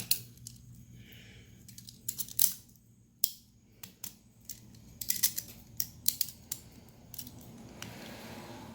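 Scattered sharp clicks, snaps and taps of hands working a hose and its fittings, with a faint steady low hum underneath.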